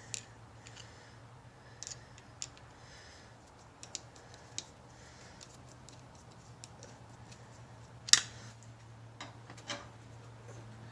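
Scattered light clicks and taps of tools and metal parts being handled, irregular rather than rhythmic, with one sharper knock about eight seconds in, over a steady low hum.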